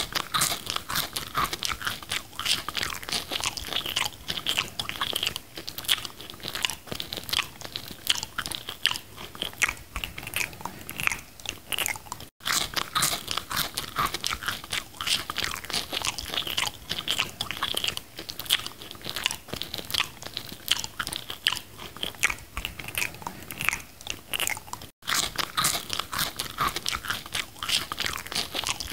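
Close-up wet chewing and biting sounds of a burger being eaten, a fast, uneven run of small crunches and mouth clicks. Two brief dropouts to silence interrupt it, about 12 and 25 seconds in.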